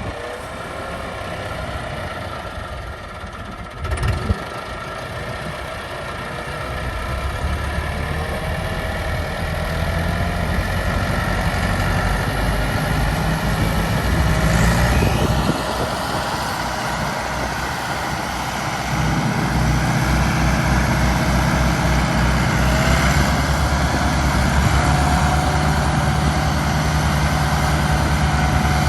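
Diesel tractor engines running heavy under load while hauling a loaded sugarcane trolley, getting louder and deeper about seven seconds in and again near twenty seconds. A single sharp knock about four seconds in.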